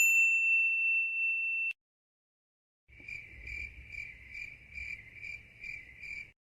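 A steady, high electronic beep held for under two seconds. After a short gap comes a crickets-chirping sound effect, in an even rhythm of about two chirps a second.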